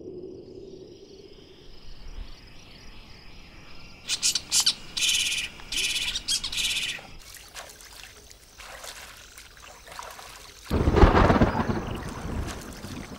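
Birds calling and chirping, with a run of loud, high chirps from about four to seven seconds in. Near the end a louder rushing noise rises over them for a second or so.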